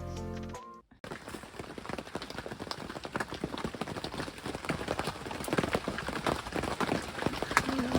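Background music cuts off about a second in, then rain falls with many irregular drop taps on a hard or stretched surface.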